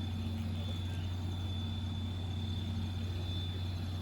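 Steam locomotive standing with steam up, giving a steady low hum with a thin high whine over it and no chuffing.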